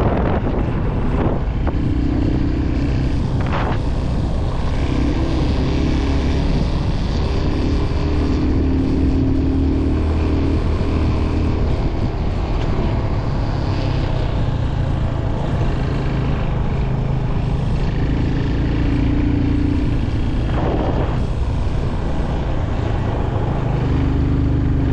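Motorcycle engine running steadily while riding, its note shifting up and down with the throttle, with wind rushing over the microphone.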